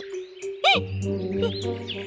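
Cartoon background music with held tones, with one short chirp-like sound effect, a quick rise and fall in pitch, about two-thirds of a second in.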